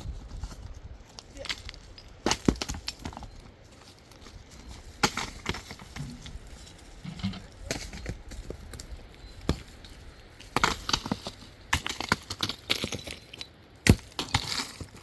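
Hard stones knocking and clacking against each other in irregular clusters of sharp hits. The loudest come about two seconds in and near the end.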